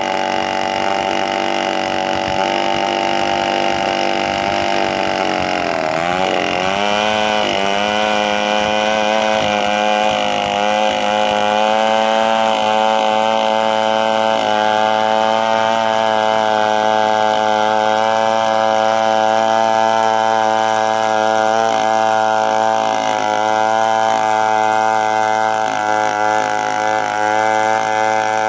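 Chainsaw running at high revs. About six seconds in, its pitch dips sharply, then settles a little lower and holds steady, as when the chain is working through wood under load.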